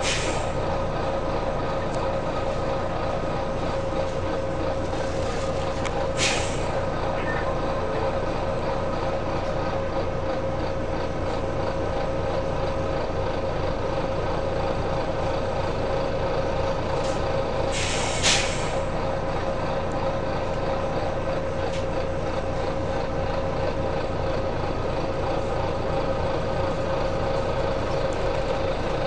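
Volvo B9TL double-decker bus's diesel engine running steadily with a steady tone above it, broken by short, sharp hisses of compressed air from the bus's air system near the start, about six seconds in and, loudest, about eighteen seconds in.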